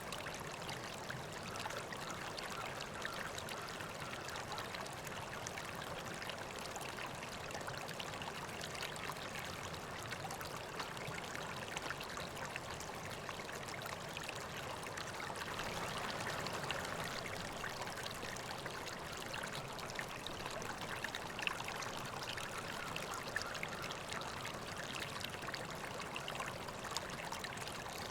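River water flowing steadily over rocks, a continuous rushing and trickling, with a few sharper splashes in the latter half.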